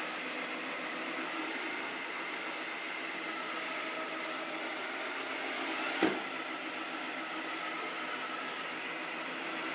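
Robot vacuum cleaner running on its first run, a steady whir of its motor and brushes. A single sharp knock about six seconds in.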